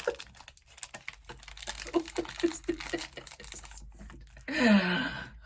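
A plastic candy wrapper crinkling, with many quick clicks as it is handled. A short vocal sound about four and a half seconds in.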